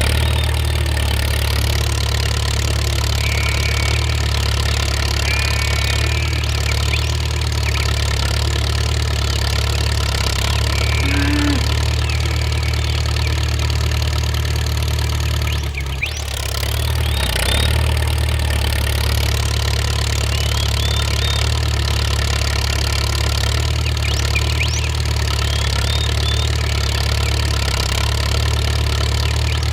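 An engine running steadily at an even pitch, with a brief dip in level about sixteen seconds in.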